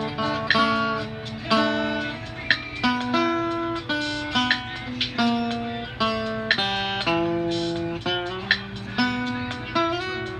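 Guitar music: a melody of plucked notes that change pitch every fraction of a second, with sharp accented notes about once a second.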